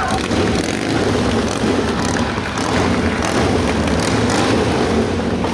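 Motorcycle engine running loud and steady.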